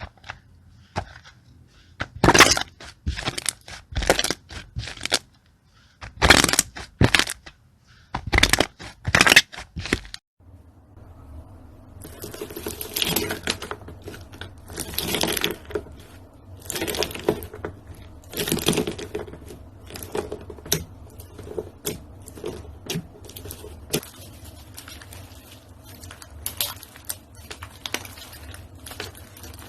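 Slime being squeezed and pressed by hand, giving clusters of sharp crackling, popping clicks. About a third of the way in the sound changes to softer, quieter crackles over a steady low hum.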